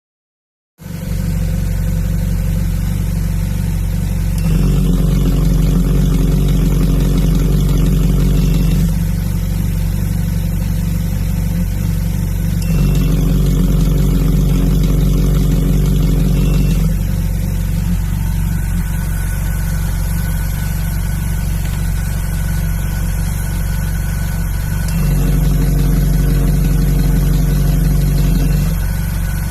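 Ferrari 458 Italia's 4.5-litre V8 idling through an aftermarket exhaust. Three times it steps up to a louder, fuller sound for about four seconds and drops back, with no change in engine speed: the remote-controlled exhaust valves opening and closing.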